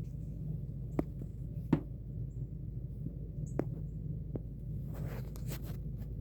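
A few sharp clicks and a brief patch of rustling near the end, with a few faint short high chirps, over a steady low rumble.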